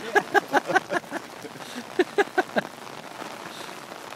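A person laughing in two short bouts of rapid 'ha-ha' pulses, about five a second, over steady rain; only the rain is left near the end.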